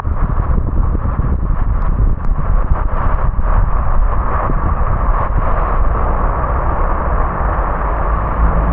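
A car driving on rain-wet roads: steady tyre hiss and a low road rumble, with scattered light ticks over the first few seconds.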